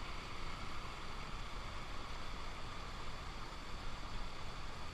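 Steady rush of water from a waterfall, an even hiss with no change.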